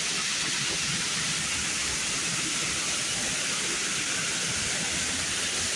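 Automatic car wash's spray jets running, a steady hiss of high-pressure water.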